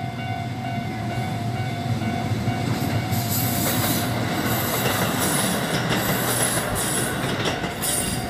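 A JR Central electric train passes a level crossing, its running noise building about two seconds in, with high-pitched wheel screeching from about three seconds on. The crossing's warning bell rings steadily behind it.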